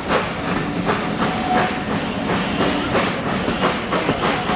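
Severn Valley Railway train running, with a steady rhythmic clatter of about two to three beats a second over a constant rumble and hiss. A faint thin whine comes in briefly about a second and a half in.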